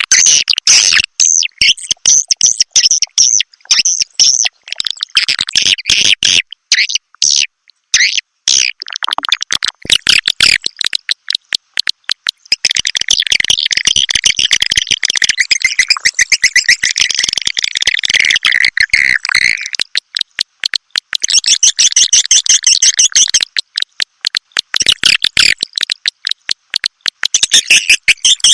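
Recorded edible-nest swiftlet calls: dense, rapid clicking twitters and chirps in phrases several seconds long with short breaks between them. This is a swiftlet lure call, played to draw swiftlets into a nesting house.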